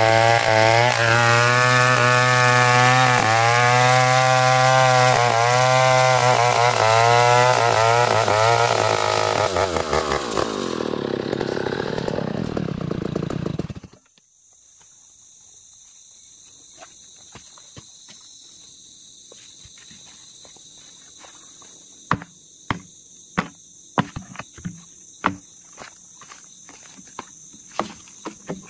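Two-stroke chainsaw running under load as it cuts ulin wood, its engine pitch repeatedly dipping and recovering. It slows and stops about halfway through. Crickets or other insects then sing in steady high tones, with scattered sharp clicks.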